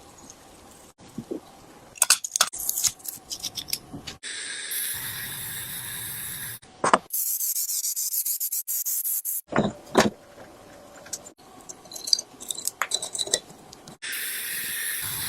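Workshop sounds cut one after another: metal bike parts clicking, clinking and scraping, alternating with stretches of steady hiss that start and stop abruptly.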